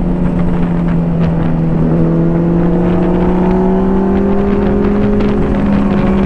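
Motorcycle engine running under way at steady high revs, its pitch creeping up slightly as the bike pulls, with low wind rumble on the microphone.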